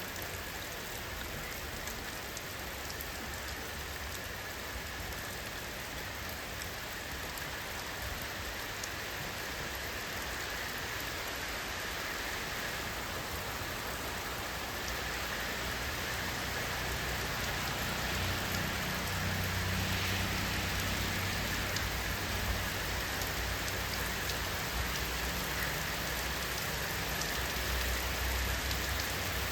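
Steady rain falling and pattering on surfaces, an even hiss of drops. A low rumble swells in beneath it in the second half.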